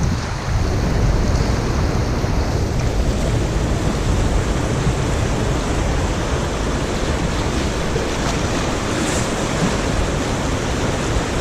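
River water rushing steadily around the raft, with wind buffeting the head-mounted GoPro's microphone.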